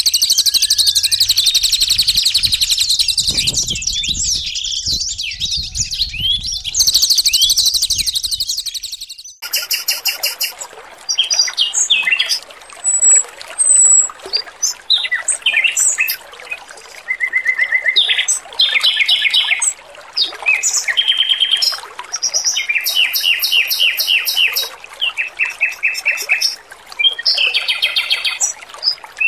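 Male red-billed leiothrix (Pekin robin) singing repeated clear, fast trilled and whistled phrases over steady trickling water. For about the first nine seconds the chirping is dense and busy with a low rumble under it, then it cuts off abruptly and separate phrases follow.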